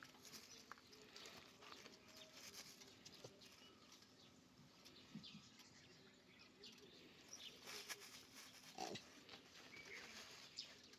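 Faint sounds of a monkey troop: scattered soft rustling and patter, with a few brief soft calls, one about five seconds in and a clearer one near nine seconds.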